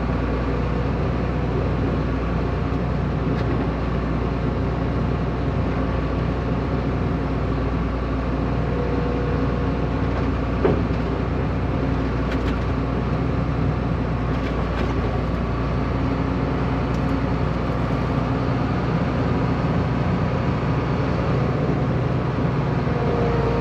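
Farm machinery engine running steadily under a constant drone, with several steady hum tones and no change in speed.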